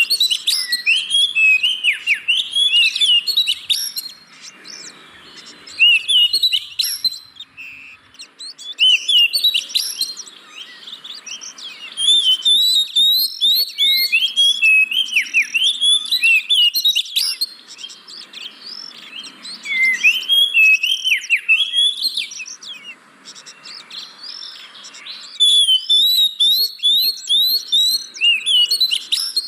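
Oriental magpie-robin (kacer) song: loud bouts of quick, varied whistles and chirps lasting a few seconds each, with short pauses between them. It is a lure recording meant to set off a bird that is reluctant to sing.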